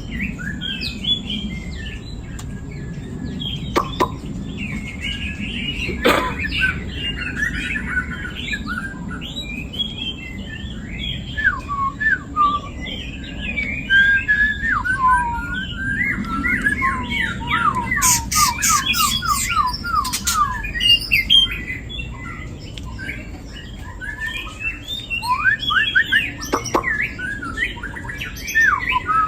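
A pair of young birds chirping and twittering almost without pause, with a fast run of short, falling notes about two-thirds of the way in. A few sharp clicks sound over the calls.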